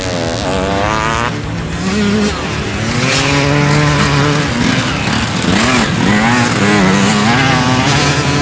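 Several motorcycle engines revving, their pitch rising and falling as they race on a track.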